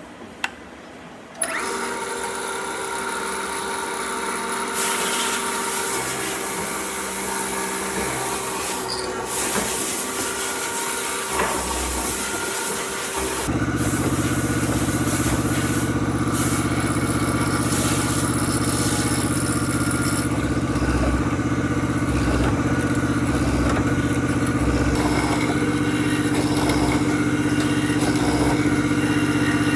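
An electric power tool's motor starts about a second and a half in and runs steadily. At about 13 seconds it changes to a louder, deeper, fuller sound.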